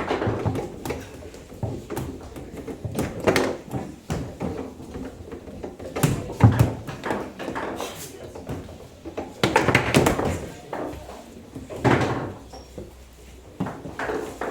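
Table football (foosball) table in play: irregular sharp knocks and clacks as the ball is struck and the rods bang, with a few louder flurries of hits.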